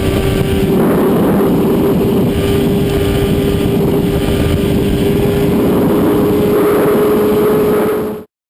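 Naturally aspirated Honda Civic Si engine held at steady high revs at speed, under loud wind and road noise; the engine note stays at one pitch. The sound cuts off abruptly near the end.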